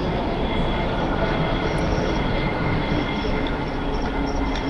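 A train running on the tracks: a steady rumble with faint high-pitched wheel squeal.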